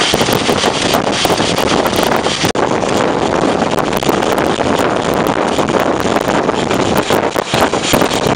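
Wind buffeting the microphone held out of the window of a moving steam-hauled train, over the rumble of the running train and a scatter of sharp clicks and rattles.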